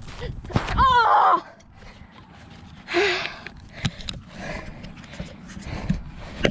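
Running footsteps, with a loud cry that falls in pitch about a second in and a short gasp about three seconds in.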